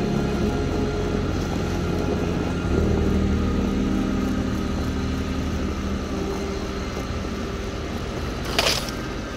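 Vehicle engine running steadily as it drives on a snowy road, its note shifting and getting a little louder about three seconds in. Near the end comes one brief, sharp hissing scrape.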